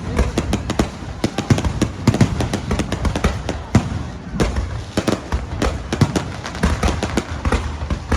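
Fireworks going off: a dense, irregular run of sharp bangs and cracks, several a second, over a deep rumble of booms.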